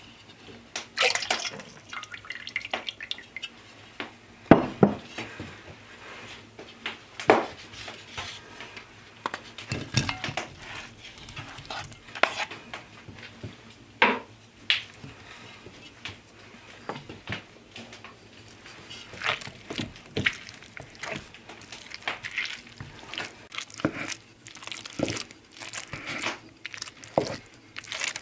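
Kitchen hand work: irregular clinks and knocks of utensils and dishes, with wet dripping and liquid sounds.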